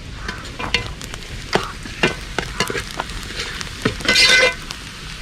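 Onions, green chillies, ginger and garlic sautéing in hot coconut oil, sizzling, with a spoon stirring and knocking irregularly against the pan. There is a louder brief scrape about four seconds in.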